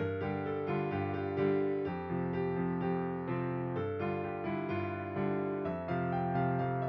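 Background music: a piano playing a gentle melody of sustained notes, changing about every half second to a second.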